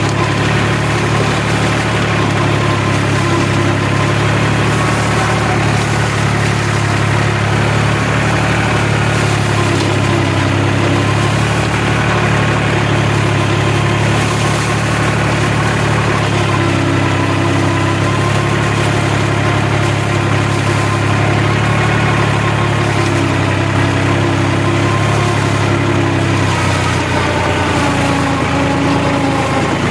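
New Holland tractor's diesel engine running steadily under load while driving a Shaktiman rotavator, with a brief change in the engine note near the end.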